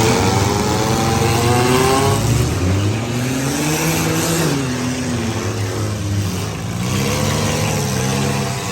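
Engines of several compact and midsize demolition derby cars revving up and down over a steady low rumble of running engines.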